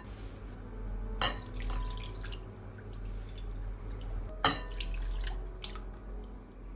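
Kitchen work sounds: wet, dripping handling over a low hum, with two sharp clinks, one a little over a second in and a louder one about four and a half seconds in.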